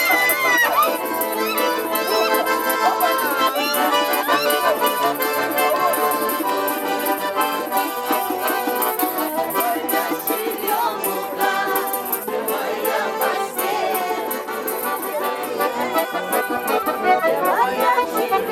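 Garmon, the Russian button accordion, playing a traditional folk tune: a melody over sustained chords.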